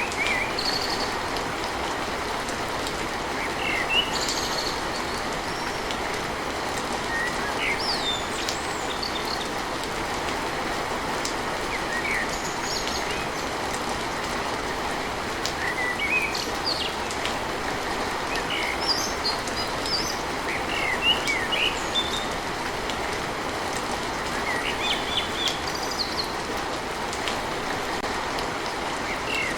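Steady rain hiss with birds chirping now and then over it.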